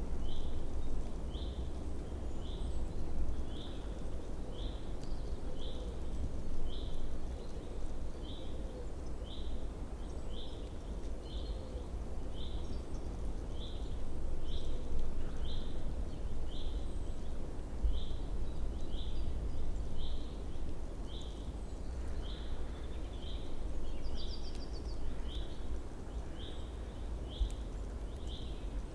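A bird repeating one short, high chirp about once a second, very evenly, over a low rumble of wind noise. A brief higher buzzy note comes in once near the end.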